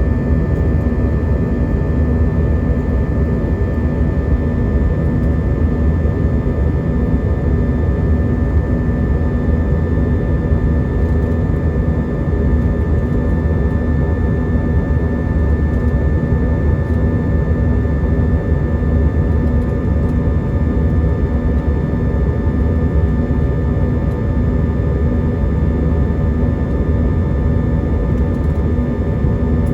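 Steady cabin noise inside an Airbus A320-232 airborne after takeoff: a loud, even rush of airflow with the low hum of its IAE V2500 engines, unchanging throughout.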